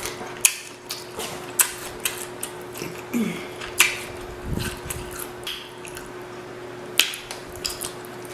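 Close-miked eating of saucy seafood: irregular sharp clicks and wet smacks from chewing and handling the food, the loudest a little after the start and about seven seconds in.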